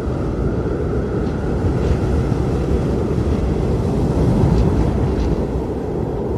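Blizzard wind blowing hard: a deep, steady rumble with a faint high howl above it.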